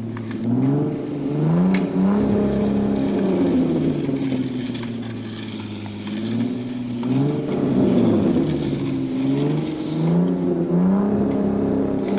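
A car engine sound revving up and down repeatedly, its pitch rising and falling every second or two.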